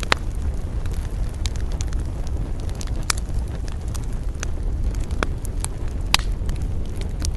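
Wood campfire crackling, with sharp pops every second or so, three of them louder, over a steady low rumble.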